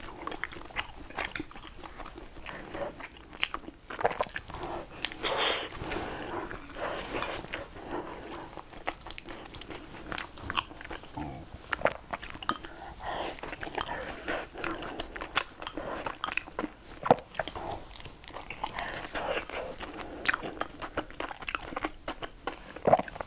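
Close-miked eating: biting and chewing of hot, soft food with wet mouth sounds, and sharp clicks scattered throughout.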